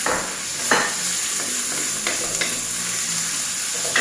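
Minced pork sizzling in hot oil with garlic and chili as it is stir-fried, with a steady hiss and several short scrapes of the stirring utensil against the pan.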